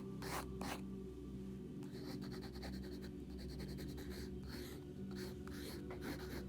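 Sketching strokes scratching across paper: three quick strokes at the start, a run of light ticking marks in the middle, and more strokes near the end.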